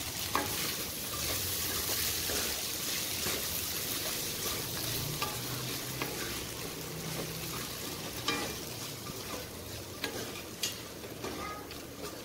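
Sabudana khichdi (soaked tapioca pearls with peanuts and cashews) sizzling in a steel pan while being stirred, with a steady hiss and a few sharp clicks of the spoon against the pan.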